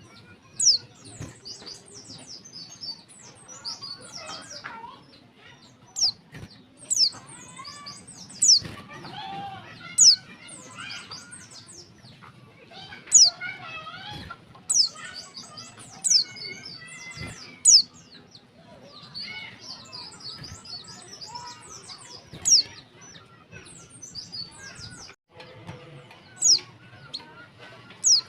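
Female white-eye (pleci) calling: sharp, high chirps that slide quickly downward, repeated irregularly every one to three seconds over softer continuous twittering. This is a female's call used to lure males and set them singing.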